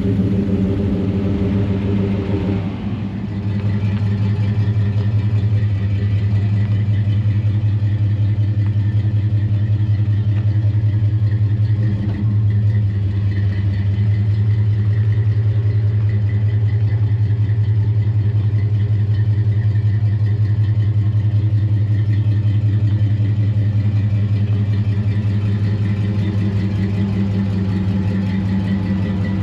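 A truck engine idling steadily, a loud, even low drone with a short dip about twelve seconds in.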